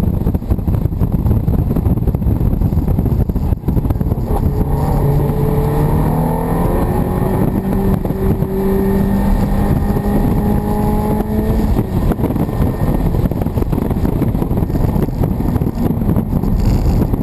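Ferrari F430's V8 engine heard from inside the cabin while driving on track, its note climbing as the car speeds up between about four and twelve seconds in, over loud road and wind noise.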